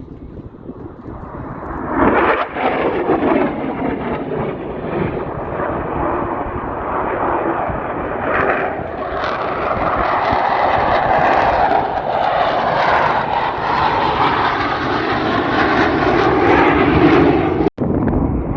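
Airplane engine noise as an aircraft flies by, jumping up about two seconds in and growing louder, with a sudden short break near the end.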